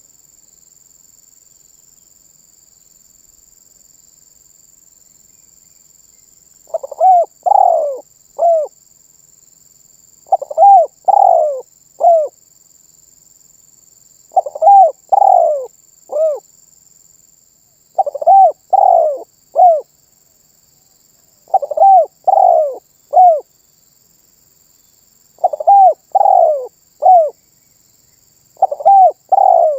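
Spotted dove cooing: after a few quiet seconds, a short three-to-four-note coo phrase repeats about every four seconds, seven times.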